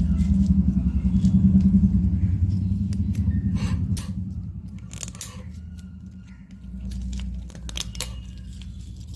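A motor running with a steady low hum, loud for about four seconds and then dropping away, with a few sharp knocks in the second half.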